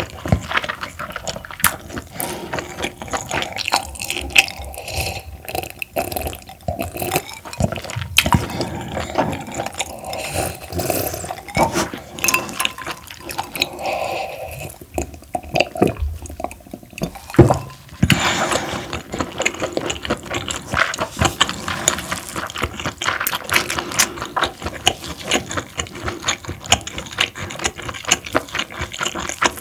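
Wet chewing of parboiled webfoot octopus close to the microphone: a dense, irregular run of small mouth clicks and wet sounds, with no rhythm.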